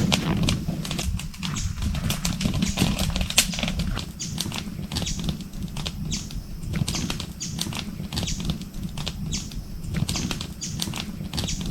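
Wood bonfire crackling, with irregular sharp pops and snaps over a steady low rumble of the flames.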